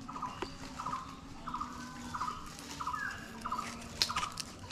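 A bird calling over and over: a short, rapid rattling note repeated about every half-second. A few sharp clicks or crackles come through, the loudest about four seconds in.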